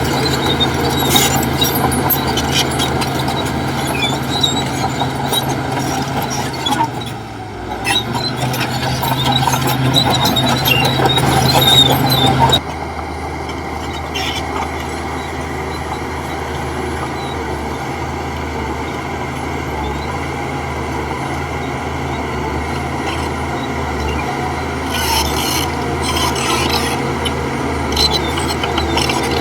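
Bulldozer engine running steadily, with squealing and scraping from the tracks and blade and scattered metallic clicks. About a third of the way through the sound drops abruptly, and after that it runs quieter and steadier.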